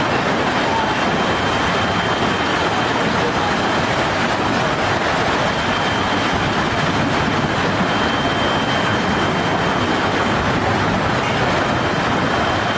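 Violent storm roaring steadily, dense and unbroken wind noise with no break.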